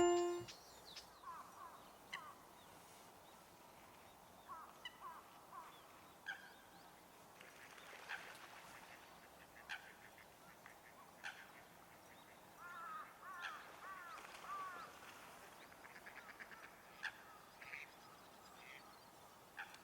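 Faint calls of waterbirds on a pond: short, scattered calls, with a few quick runs of rising-and-falling notes, the busiest run a little past the middle.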